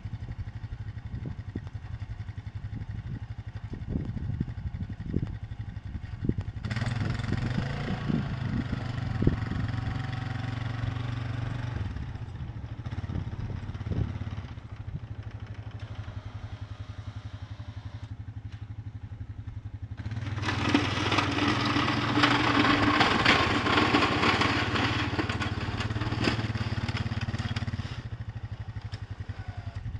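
An engine running steadily throughout, with two long stretches of louder rushing noise over it and scattered knocks in the first half.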